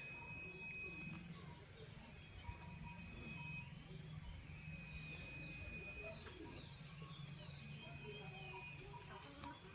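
Faint bird chirps and short twittering calls, many brief rising and falling notes scattered throughout, over a steady low hum and a thin steady high tone that comes and goes.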